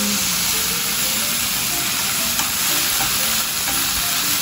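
Noodles, sliced onion and meat sizzling steadily in hot oil in a frying pan, stirred and turned with chopsticks.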